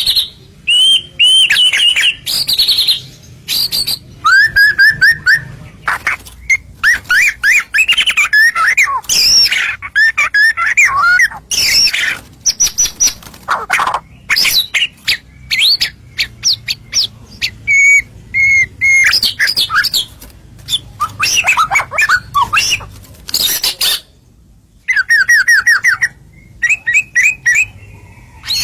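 White-rumped shama (murai batu) singing vigorously: a long run of loud, varied whistled phrases, sweeping notes and fast trills with short breaks between them.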